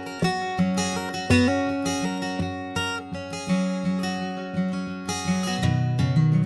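Acoustic guitar strummed in an instrumental song intro, chords struck about every half second and changing as it goes, with no singing.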